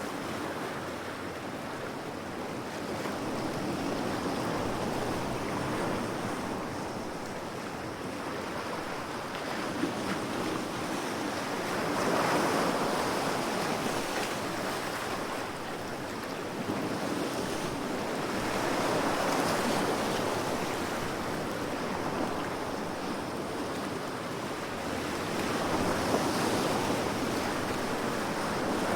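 Ocean waves breaking and washing up the shore, a steady rush that swells louder roughly every seven seconds.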